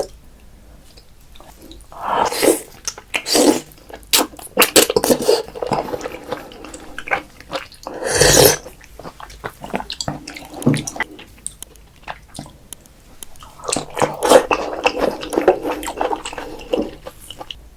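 Close-miked wet eating sounds of raw oysters being chewed: irregular smacks, clicks and squelches, with a longer wet burst about eight seconds in.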